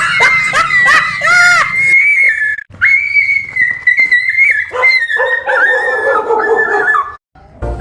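A dog whining at a high pitch, the tone wavering up and down, then cutting off suddenly near the end.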